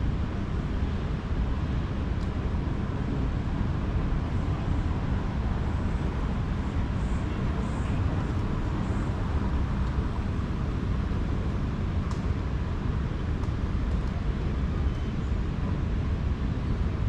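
Steady low rumble of city traffic, an even, unbroken wash of vehicle noise, with a few faint high chirps near the middle.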